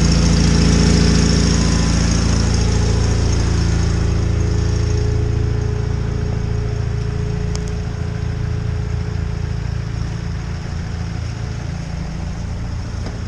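John Deere 318 garden tractor's twin-cylinder engine running steadily. It gets gradually quieter over the first half and then holds.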